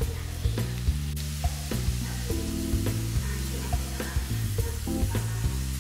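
Potato fries sizzling and crackling in hot oil during their second fry, with a slotted skimmer stirring them, over background music.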